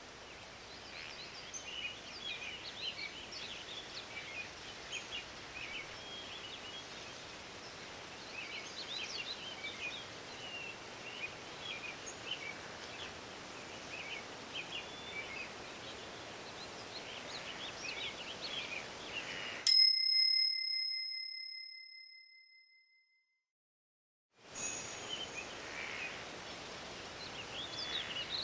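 Forest ambience with many birds chirping over a steady hiss. Near the end a single bright bell ding, the loudest sound, rings out and fades over about three seconds into complete silence, then the birdsong comes back. The ding is the timer's signal marking the end of a one-minute interval.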